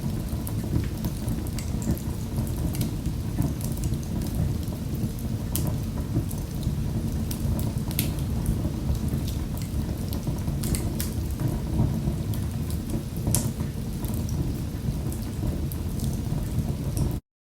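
Wood fire burning in a fireplace: a steady low rumble of flames with irregular sharp crackles and pops. The sound cuts out suddenly at the very end.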